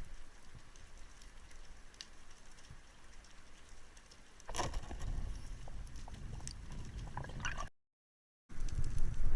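Water noise with scattered clicks and splashes. It gets louder about halfway through, cuts out completely for a moment near the end, and comes back louder.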